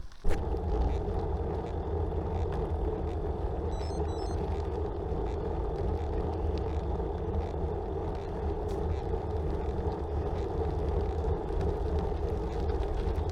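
Steady wind rush on the microphone while cycling, starting suddenly after a click.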